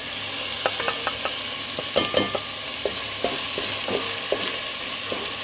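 Onion-tomato masala frying in oil with a steady sizzle, while a wooden spoon stirs it with irregular knocks and scrapes against the pan. The ground spices have just been added and are being fried into the masala.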